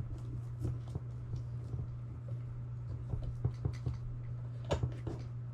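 Hands handling parts and wiring: scattered small clicks and taps, with a few louder ones about three and a half seconds in and near the end, over a steady low hum.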